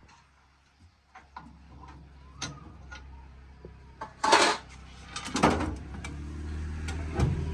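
Metal knocks and clanks of hands-on work on a rice milling machine, over a low steady machine hum that grows louder in the second half, with one loud scraping rush about four seconds in.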